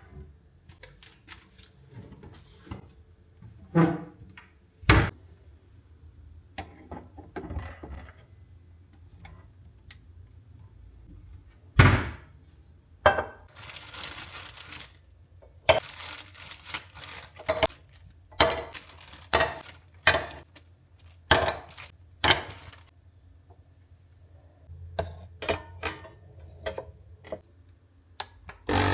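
Kitchen handling sounds: dishes and utensils being set down and knocked together, a scattered series of separate clinks and thuds, busiest in the middle stretch.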